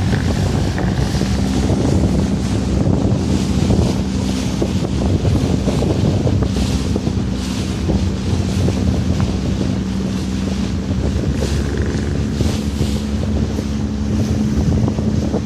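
A boat's engine running steadily under way, with water rushing and splashing against the hull and wind buffeting the microphone.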